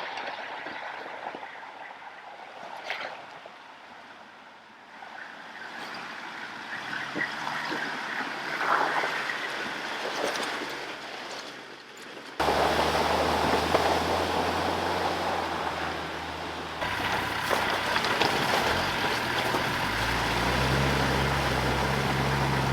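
Off-road 4WD vehicles driving, their engines running with a steady low hum under a rushing noise. The sound changes abruptly twice, about twelve and seventeen seconds in.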